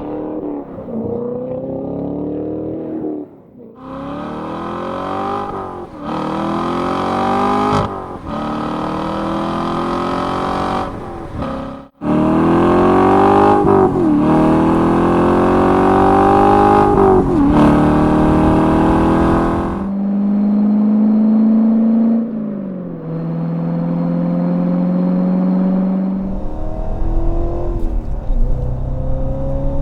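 Corvette C7 V8 through a Borla valved cat-back exhaust, accelerating hard through several upshifts: the engine note climbs and drops back at each gear change. Later the note holds steady for several seconds before the engine runs on.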